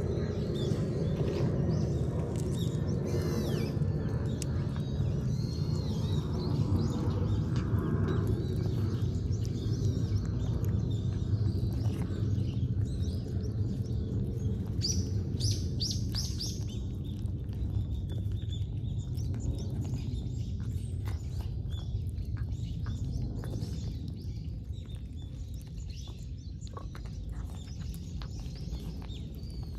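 Small birds chirping, with a quick run of four high notes about halfway through, over a steady low rumble.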